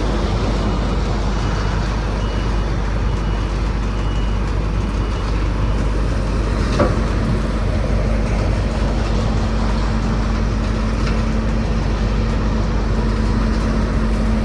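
Heavy truck engine running steadily, with a backup alarm beeping about seven times in the first five seconds. A single sharp knock comes about halfway, and a steady hum joins soon after.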